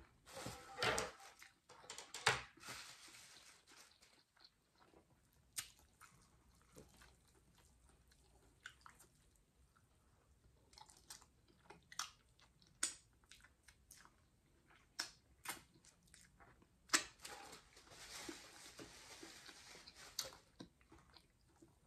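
A person chewing a bite of smothered pork chop close to the microphone, with short mouth clicks and smacks scattered irregularly throughout.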